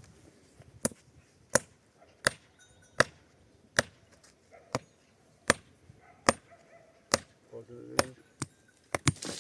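Hammer blows driving a tent stake into the ground: about a dozen sharp knocks, roughly one every three-quarters of a second, until the stake is set firm.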